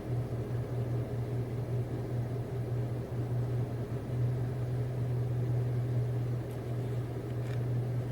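Car idling: a steady low hum heard from inside the cabin.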